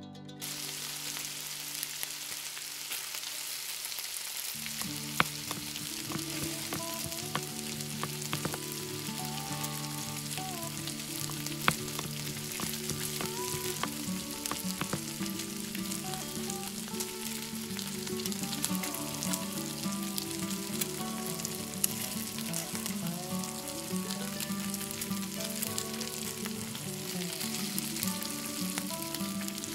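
Buckwheat with minced meat and carrot sizzling as it fries in a miniature brass wok, with a tiny spoon stirring it and now and then ticking against the metal.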